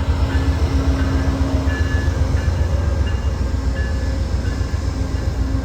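A train running: a steady heavy low rumble, with short high-pitched squeaks now and then.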